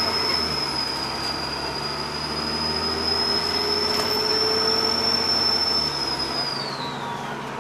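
Turbocharger whistle of a Dennis Trident bus: a high, steady whistle over the diesel engine, which falls away in pitch near the end as the engine note drops.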